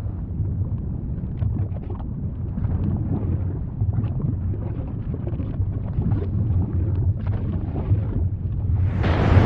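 Volcano rumbling deeply and continuously, with faint crackles over the rumble. About nine seconds in, a louder, hissier noise sets in abruptly.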